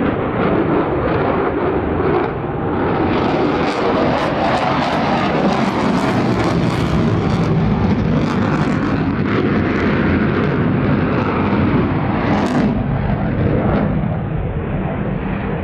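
F-22 Raptor jet fighter's twin turbofan engines in a loud, continuous jet roar during its flying display. The sound turns harsher and crackly through the middle seconds.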